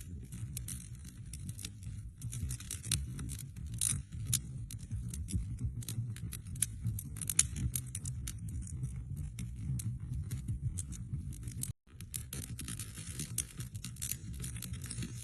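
Wood fire crackling in a fireplace: a steady run of sharp pops and snaps over a low rumble of the flames. The sound cuts out completely for an instant about three-quarters of the way through.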